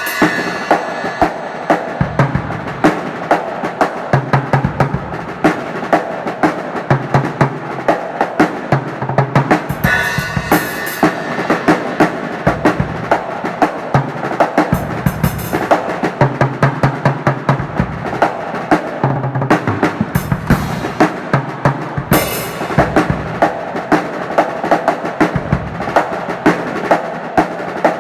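A drum kit of poor quality played as a continuous groove: bass drum and snare strokes with rolling fills. Cymbal crashes come about ten seconds in, at about fifteen seconds and again at about twenty-two seconds.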